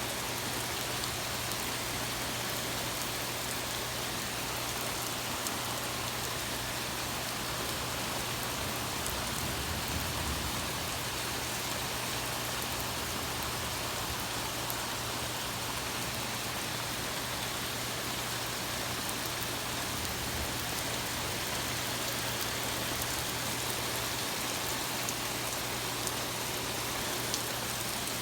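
Rain falling steadily, an even hiss with no break or thunderclap.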